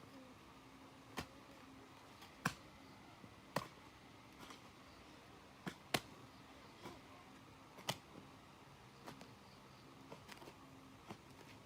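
Sharp knocks or strikes repeating roughly once a second, slightly irregular, over a faint steady hum.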